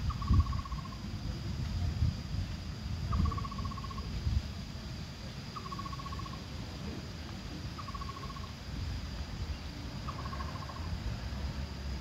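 A bird calling five times, about every two and a half seconds: each call a short trill of rapid pulses, about half a second long, opening with a quick upward note and sinking slightly. A steady faint high tone and a low rumble run underneath.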